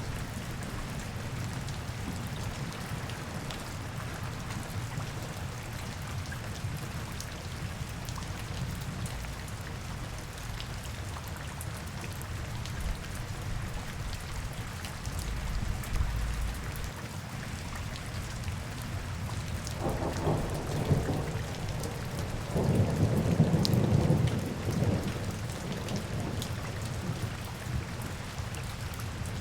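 Steady rain falling, an even hiss of drops. A louder low rumble swells about twenty seconds in and fades a few seconds later.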